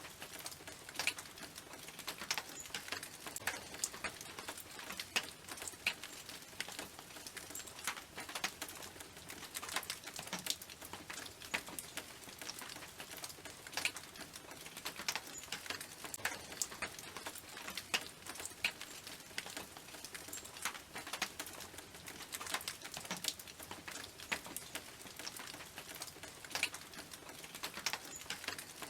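Rain falling on a tin roof: a steady hiss with many irregular sharp drops ticking on the metal, several a second.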